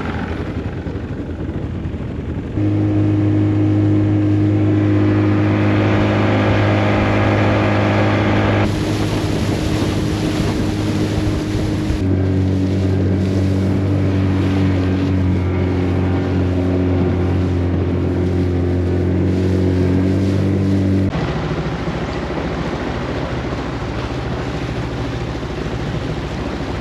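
Motorboat engine running steadily under way, with wind on the microphone and water noise. Its drone shifts suddenly in pitch a few times and drops away about three quarters of the way through, leaving the wind and water.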